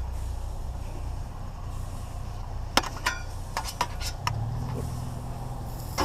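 A vehicle engine idling with a steady low hum that shifts slightly about four seconds in. Over it, a few sharp clinks and knocks in the middle.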